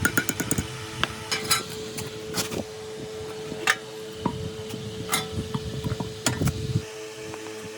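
Irregular metallic clinks, taps and knocks, some ringing briefly, over a steady hum; they thin out near the end.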